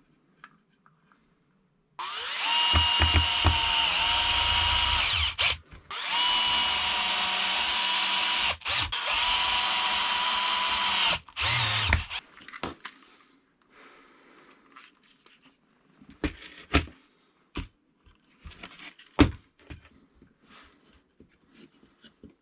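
Electric power tool running in three stretches of about three seconds each with short breaks, a steady high whine; it stops about twelve seconds in, followed by scattered light clicks and knocks of handling.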